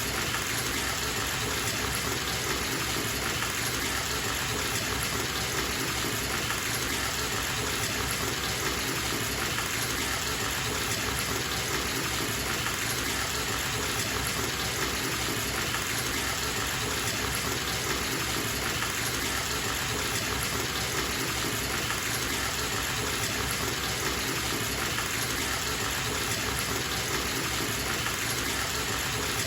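Bathtub tap running full into the tub, a steady gushing of water with no change.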